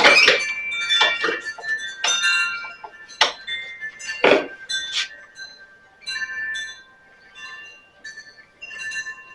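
A run of sharp clinks from hard objects, each leaving a ringing tone. The clinks come thick and loud in the first five seconds, then thin out into softer ringing.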